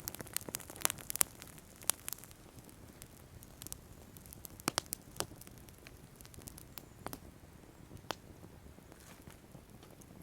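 Wood fire crackling on the ground, with irregular sharp pops and snaps over a low hiss. The pops come thickest in the first two seconds and again around the middle.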